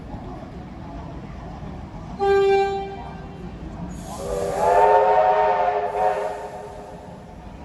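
A train whistle blowing twice: a short single-note toot about two seconds in, then a louder, longer chord of several notes with a hiss, starting about four seconds in and fading out.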